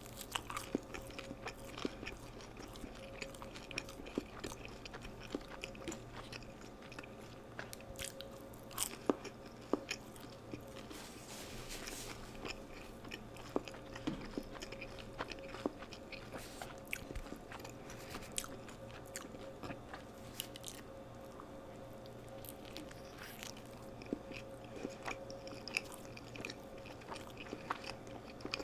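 Close-miked eating: crunchy bites and chewing, with many short, sharp crackles scattered through, over a faint steady hum.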